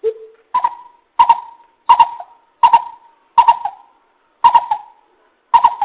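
Coucal calling a series of deep, evenly spaced hoots, about one and a half a second. The first note is lower, then the pitch steps up for the rest. Each hoot starts with a hard click from the loud, overdriven lure recording.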